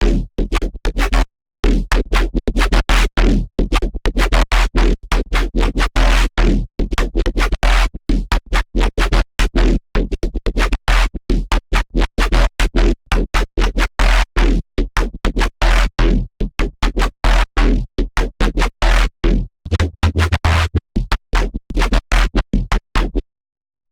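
Wavetable synth patch in Xfer Serum, built from an image-derived wavetable, played in rapid, choppy, stuttering dubstep-style notes over a deep sub-bass. It cuts off suddenly just before the end.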